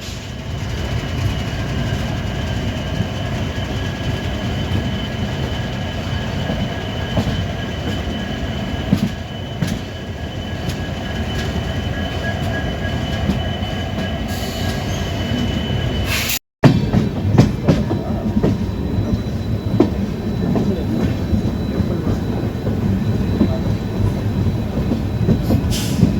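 Diesel-hauled train running on the track: a steady heavy rumble, with a thin high whine over it for the first sixteen seconds. After a sudden break about sixteen seconds in, the rumble goes on with rattling and knocking.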